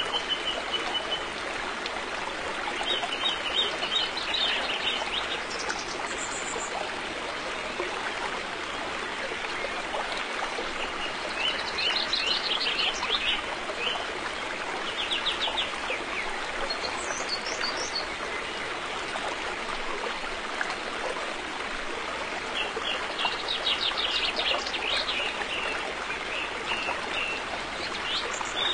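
River water flowing steadily, with birds singing over it: short rapid trills and chirps that recur every few seconds, and a few higher chirps now and then.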